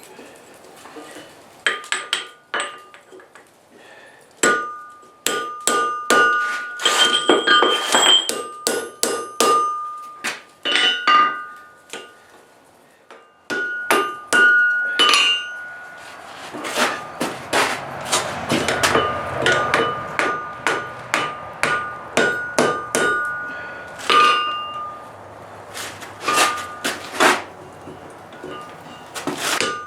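Blacksmith's hammer striking hot steel on an anvil, the blows coming in irregular runs with the anvil ringing at a steady pitch after them. About halfway through, a faster run of blows plays over a low, steady hum.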